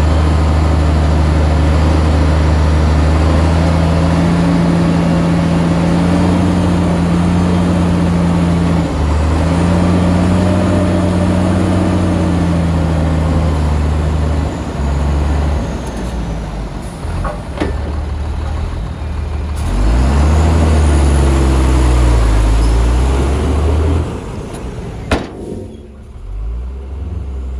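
Shantui bulldozer's diesel engine working under load, its pitch rising and falling as the load and revs change. A single sharp knock comes near the end.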